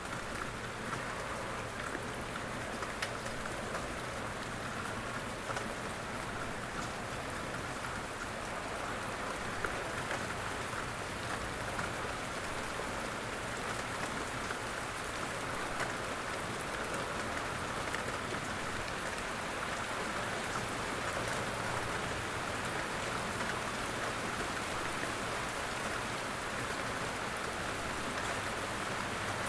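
Steady rainfall, a continuous hiss of rain with scattered individual drops ticking on a surface.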